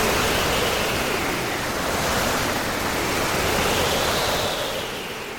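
Steady rushing noise of sea waves, with a slowly rising and falling hiss, fading out near the end.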